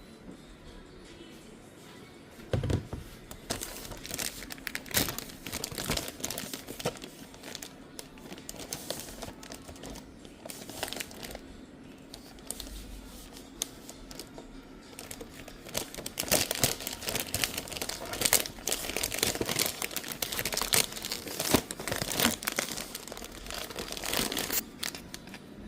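Packaging crinkling and rustling as it is handled and opened, in two busy spells with sparser crackles between, over a faint steady hum.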